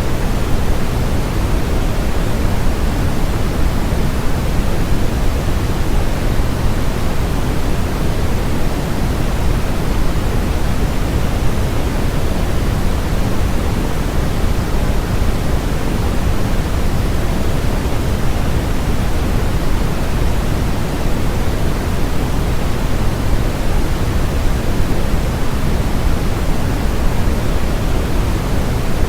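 Steady, unchanging generated noise of the kind sold as white noise, a smooth hiss with more weight in the low end than in the highs.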